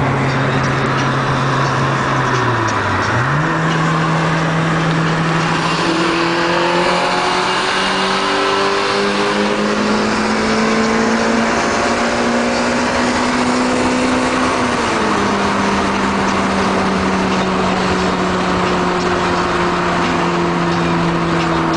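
Four-cylinder car engine heard from inside the cabin at highway speed, with road and wind noise. About three seconds in the revs drop briefly and then jump up. They climb steadily for about eleven seconds, fall sharply at a gear change, then sag slowly.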